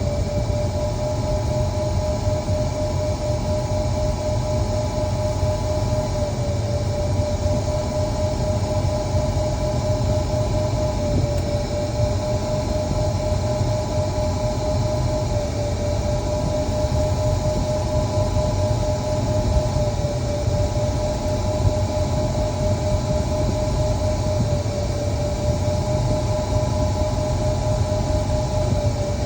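2008 Ford Edge running with the air conditioning on: a steady rumble with a constant whine that never changes, while the AC compressor is checked because it is suspected to be bad.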